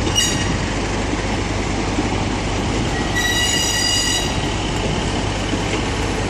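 Diesel multiple-unit train made up of coupled Class 153, Class 150 and Class 158 units rolling slowly past, engines and wheels giving a steady rumble. A high-pitched wheel squeal sounds briefly at the start and again for about a second midway.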